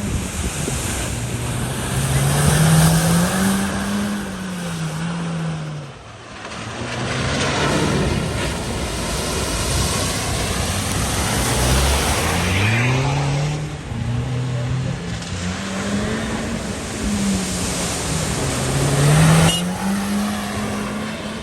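Car engine revving up and down again and again while driving through deep floodwater, with the rush and splash of water over it. The loudest surges come about three seconds in and near the end.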